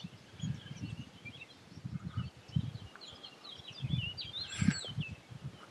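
Birds chirping and twittering in many short high phrases, busiest near the end, over repeated low dull thuds.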